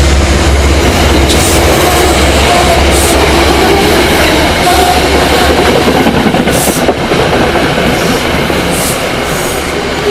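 Metro-North passenger cars rolling past at close range: a loud, steady rumble, with the clack of wheels over rail joints every second or two and a faint wheel squeal.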